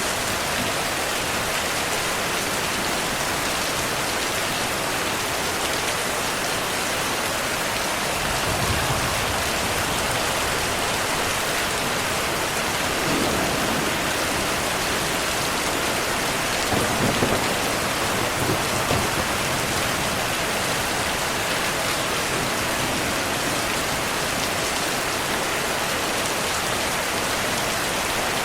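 Heavy rain falling steadily, with low thunder rumbling several times, the longest roll a little past halfway.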